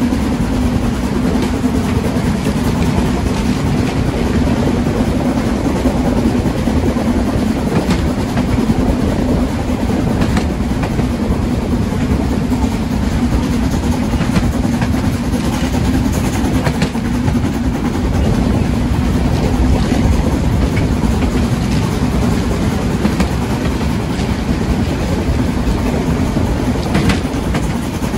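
A train running steadily along the rails: an even rumble with a constant low hum and occasional faint clicks.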